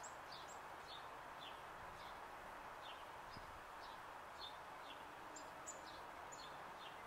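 Songbird chirping over and over, short falling chirps two or three a second, over a faint steady background noise.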